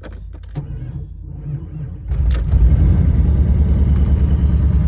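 Cold start of a 1993 Jeep Grand Wagoneer's V8: the starter cranks for about a second and a half, then the engine catches and runs steadily.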